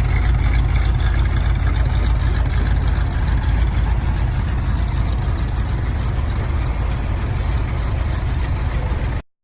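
Vehicle engine idling steadily, with a deep low rumble. The sound cuts off abruptly just before the end.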